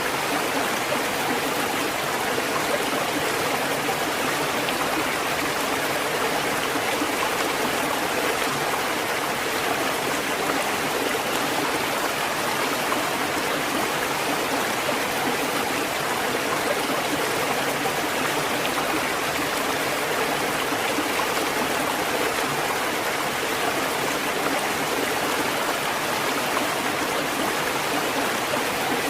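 Steady rushing water, an even wash with no rise and fall of breaking waves.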